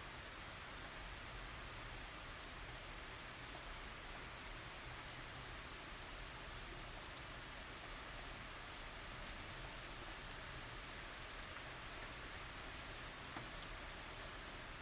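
Gentle tropical rain falling steadily: an even hiss with fine ticks of single drops.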